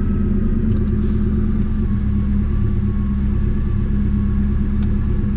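Car engine idling with a steady low rumble, running rough enough to shake the steering wheel: the owner suspects a misfire and says it usually smooths out as the engine warms up.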